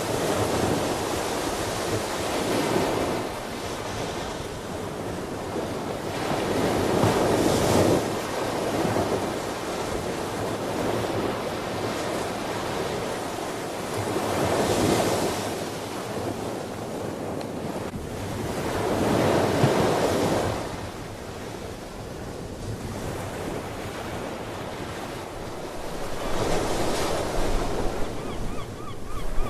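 Ocean waves washing onto a shore, swelling into a louder surge every five to eight seconds over a steady hiss of surf.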